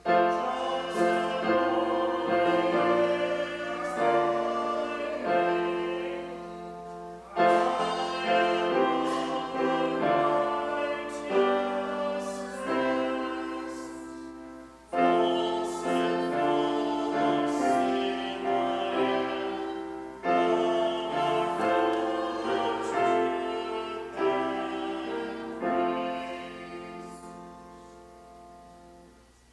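A hymn sung with piano accompaniment, in phrases of several seconds each, the last one fading out near the end.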